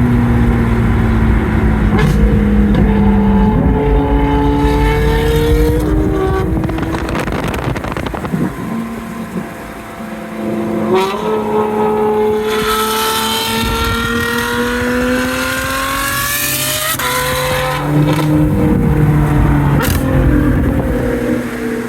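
Ferrari V12 with a custom exhaust, running and changing pitch in steps, then revving in a long rising climb under acceleration in the second half that drops off sharply before it settles back to steadier running.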